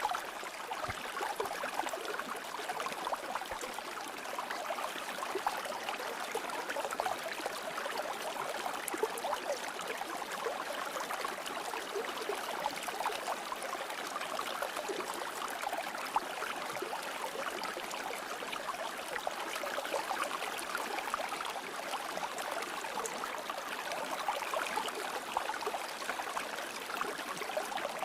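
River water flowing steadily over stones, a continuous babbling and splashing rush.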